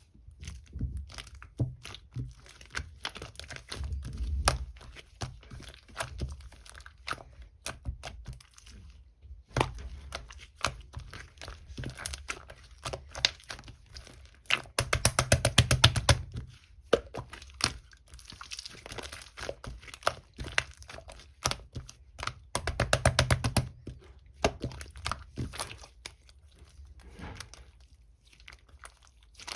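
Sticky pink slime being worked by hand, giving a dense stream of wet clicks, crackles and pops, with two louder bursts of rapid popping around halfway and about three-quarters of the way through.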